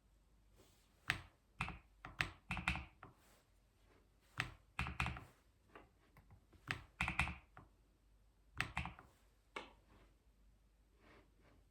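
Typing on a computer keyboard in short bursts of key clicks with brief pauses between them, tapering off near the end.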